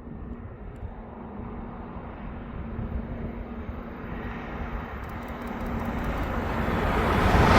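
An approaching train: a rumble that grows steadily louder over several seconds, with a faint steady hum, loudest near the end as the train nears.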